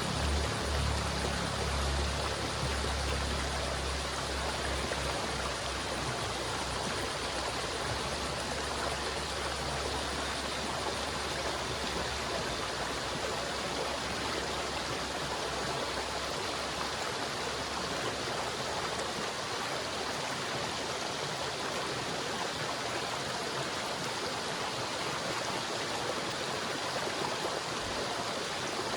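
River water flowing with a steady, even rush. A low hum underneath fades out over the first several seconds.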